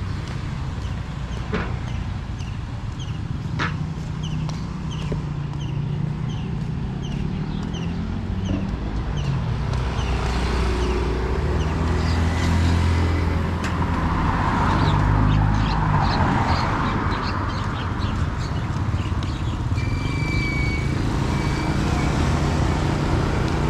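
Street traffic: motor vehicle engines running close by, with one vehicle passing louder near the middle. A quick series of short high chirps repeats over it for several seconds, twice.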